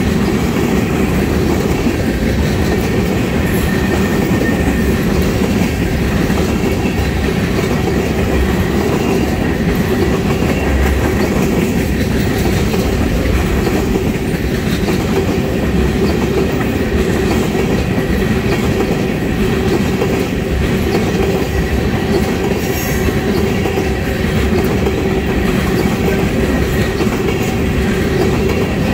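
Freight train tank cars rolling past close by: a steady, loud running noise of steel wheels on the rails, with no letup.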